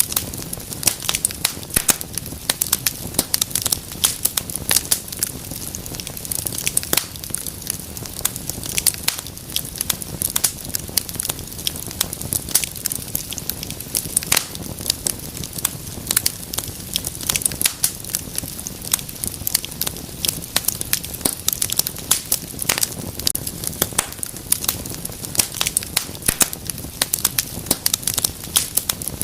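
Wood fire in a fireplace crackling, with dense, irregular sharp pops and snaps over a soft steady hiss.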